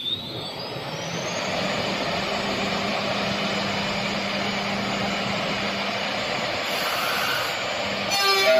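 CNC router spindle whining up in pitch over the first second or so as it reaches speed, then a steady rushing noise of cutting with a low hum under it. A different set of steady tones starts near the end.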